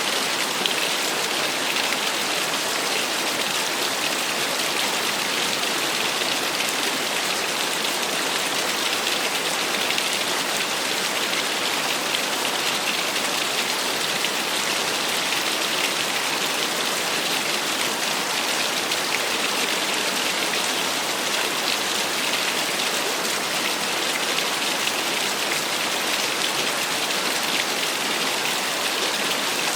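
Small waterfall splashing steadily: an even, unbroken rush of falling water with a bright, hissy edge.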